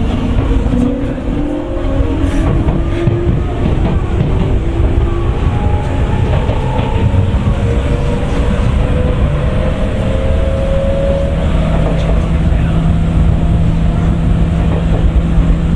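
Tokyu 9000 series train's early Hitachi GTO-thyristor VVVF inverter whining, its tones rising slowly in pitch as the train picks up speed, over a heavy rumble of wheels on rail. About twelve seconds in, the rising tones fade and a steady low hum takes over.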